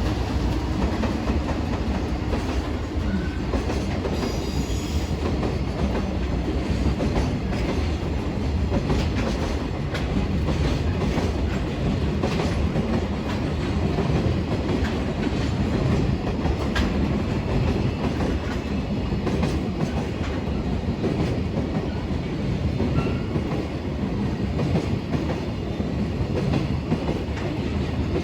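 Container freight train rolling past steadily, its wheels clattering over the rail joints.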